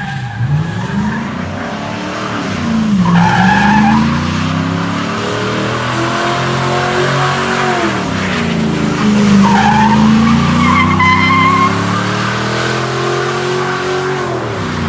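A car engine revving up and down hard, with tyres squealing and skidding in two spells, about three seconds in and again from about nine seconds in.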